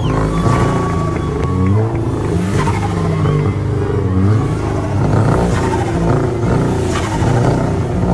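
Turbocharged Volkswagen Golf engine revving repeatedly, its pitch climbing and dropping about once a second, with short hissing bursts between some of the revs.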